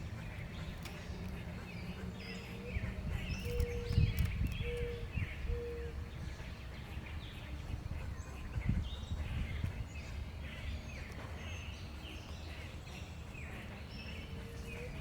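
Many small birds chirping and chattering steadily, over a low rumble. A short, low, even note sounds four times in a row a few seconds in, and again near the end.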